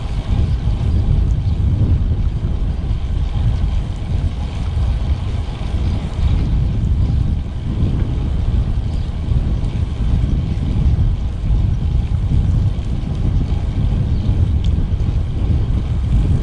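Wind rushing over the microphone while riding a road bike, a steady low rumble that buffets and flutters.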